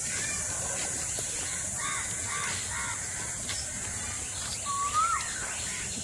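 Birds calling: a short run of harsh calls about two seconds in, then a single clear whistled note that rises and dips about five seconds in, over a steady high hiss.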